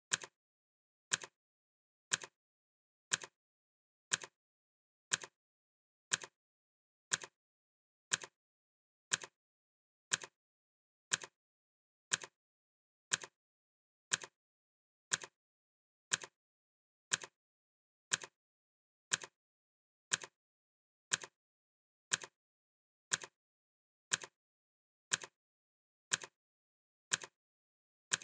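Clock ticking: one sharp, even tick every second, with silence between.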